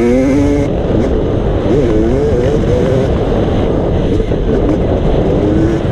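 Motocross bike engine revving, its pitch rising and falling repeatedly over a steady low rumble.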